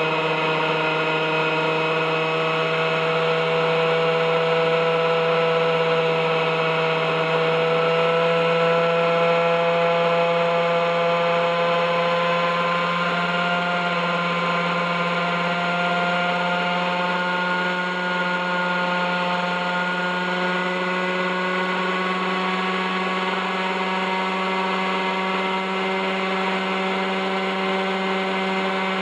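OS 61SF two-stroke glow engine of an RC helicopter running steadily in a hover, its pitch creeping slowly up over the first half and then holding level. The engine sat seized for over 30 years without maintenance and still has rusty bearings, which the owner says add resistance.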